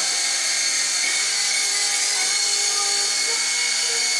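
SYMA S032 radio-controlled toy helicopter's small electric motors and rotors running with a steady high-pitched whine.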